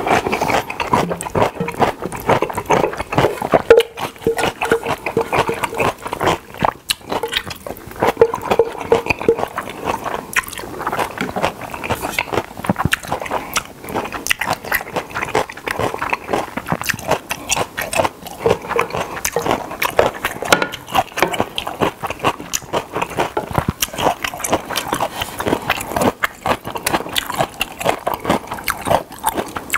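Close-miked chewing and crunching of danmuji, yellow pickled radish, a dense run of crisp bites, with chopsticks now and then clicking and scraping in a ceramic bowl.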